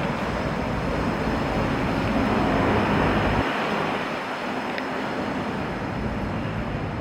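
A vehicle passing on a snowy city street: a rush of tyre and engine noise that swells to about three seconds in and then eases. Wind rumbles on the microphone and cuts out about halfway through.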